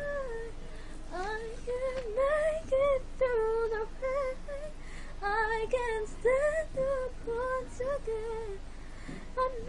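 A female voice singing melismatic vocal runs in a pop ballad, with quick rising and falling note runs and held notes with vibrato.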